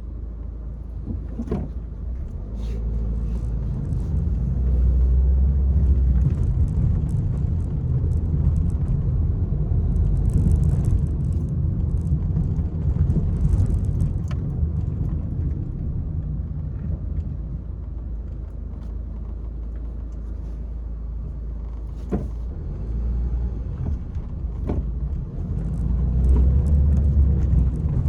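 Peugeot 301 car being driven, a steady low engine and road rumble. It grows louder about four seconds in and again near the end, with a few short knocks.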